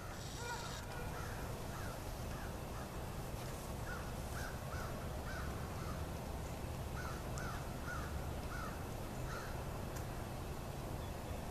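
A bird calling repeatedly in the background, a dozen or so short rising-and-falling calls in loose runs, over a steady low rumble.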